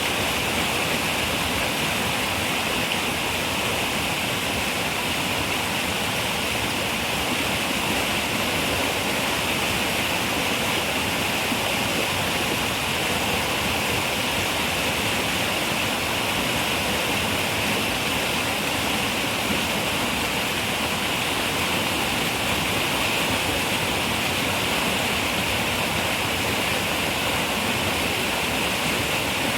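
Running river water rushing steadily, an even hiss with no breaks.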